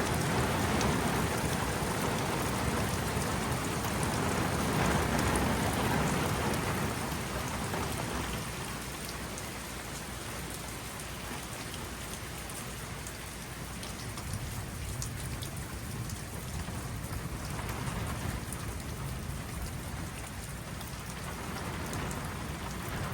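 Steady rain falling in a thunderstorm, an even hiss with fine drop clicks. It is heavier, with a low rumble underneath, for the first several seconds, then eases off and stays lighter.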